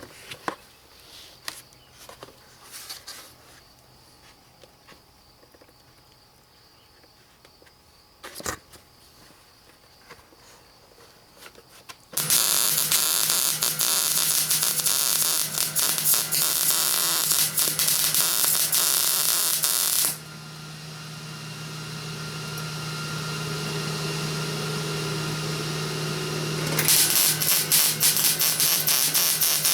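Welding arc crackling in long runs on steel sheet, starting about twelve seconds in and again near the end, with a steadier hum in between; before the first run there are only small handling clicks.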